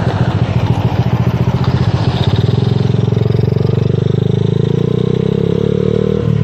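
Motorcycle engine under way, its pitch rising steadily as it accelerates for several seconds, then dropping suddenly near the end as the throttle is closed or a gear is changed, over a steady rush of wind noise.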